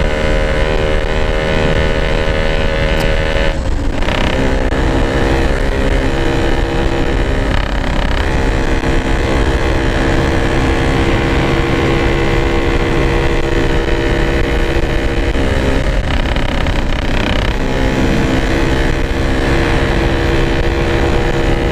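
Yamaha RX-King's two-stroke single-cylinder engine running under way at a steady note, with a short break in the note about three and a half seconds in and small rises and falls in pitch later on.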